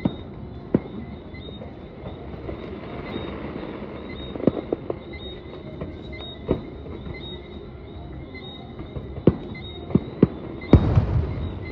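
Fireworks going off: scattered single sharp bangs every second or few over a steady background noise, with a louder, denser run of bangs near the end.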